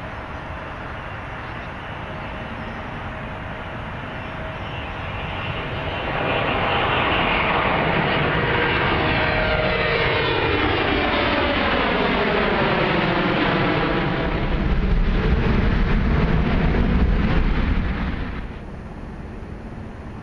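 Jet airliner passing low overhead near the runway end. Its engine noise builds, then swells into a sweeping whoosh whose pitch bands slide down and back up. It peaks with a deep rumble and drops off abruptly near the end.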